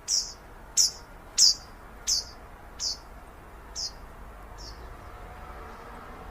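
A bird giving a series of seven sharp, high chirps, each sliding down in pitch. They come further apart and grow fainter as the series goes on, over a steady low background hiss.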